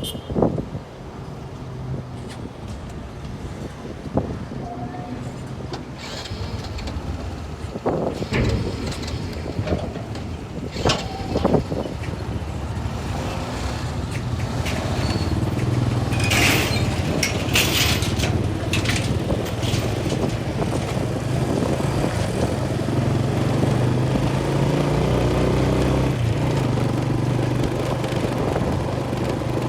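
An engine running steadily, growing louder about halfway through, with a few sharp knocks early on and short hissing bursts in the middle.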